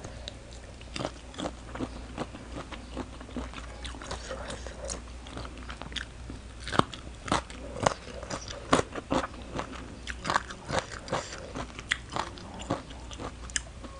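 Close-up eating sounds: biting into and chewing shredded green mango salad and shrimp, with many sharp, crisp crunches that come thicker in the second half.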